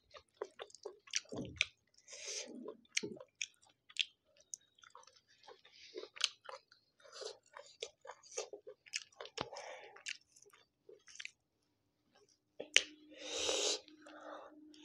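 Wet chewing of a mouthful of rice and curry eaten by hand, with many small clicks and smacks. About two seconds before the end comes a louder mouthful as another handful goes in.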